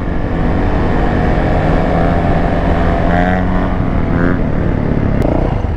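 Dirt bike engine running, its pitch rising and falling a little, with rumbling wind noise on the microphone.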